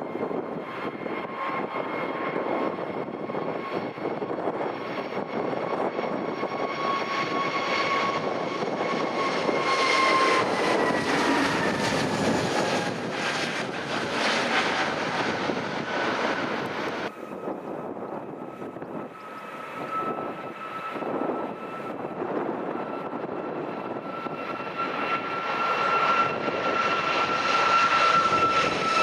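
Airliner engines passing close by, their whine dropping in pitch as the aircraft goes past. The sound cuts abruptly to a second aircraft whose engine tone grows louder near the end.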